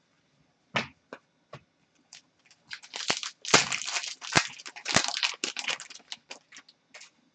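Trading-card pack wrapper crinkling and tearing. A few light clicks come first, then about three seconds of dense crackling.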